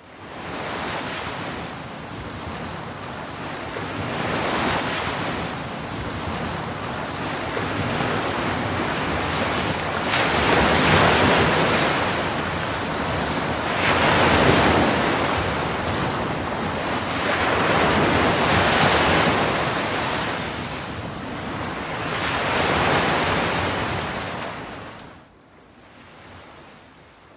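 Ocean surf: waves washing in and out, swelling and falling back every few seconds, then dropping away near the end.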